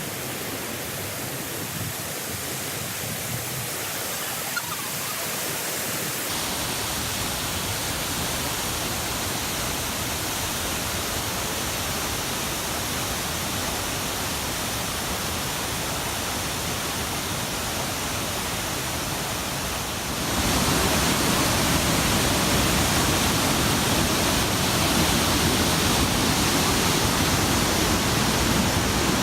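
Rushing water of Fukiwari Falls, a steady, even hiss that jumps louder about six seconds in and again about twenty seconds in.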